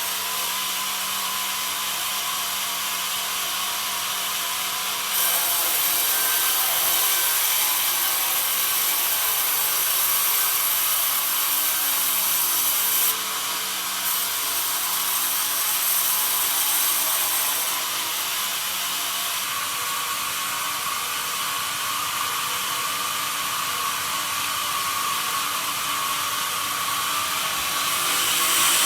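Band sawmill blade cutting through pine: a steady high-pitched hiss of the saw in the wood. It gets louder about five seconds in, dips briefly, and eases back after about eighteen seconds.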